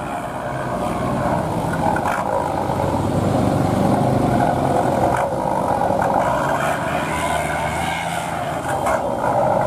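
Heavy truck diesel engines running steadily in slow traffic on a steep climb, a low, even engine drone with road noise over it.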